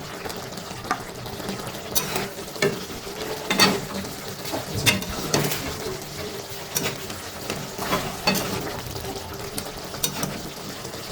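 A spoon stirring chicken in a cooking pot, scraping and clinking against the metal about every second, over a steady sizzle of the food cooking.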